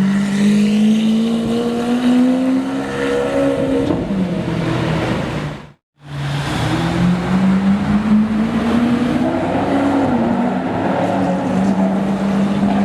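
Supercar engines accelerating under load, their note climbing steadily for a few seconds and then dropping at a gearshift. A sudden moment of silence about halfway through marks an edit, and after it another engine note climbs, dips and then holds steady.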